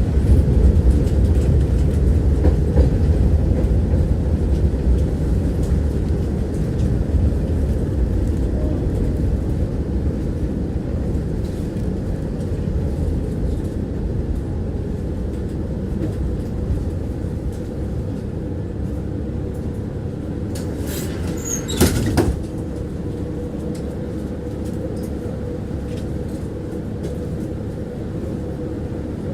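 Tram running on its rails, heard from inside the passenger car: a steady rumble and wheel clatter that gradually fades, with a brief sharp clatter about three-quarters of the way through and a steady hum in the last few seconds.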